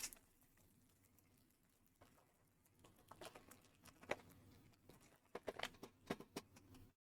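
Near silence, with faint scattered ticks and light rustles of trading cards and a booster pack being handled, starting about three seconds in.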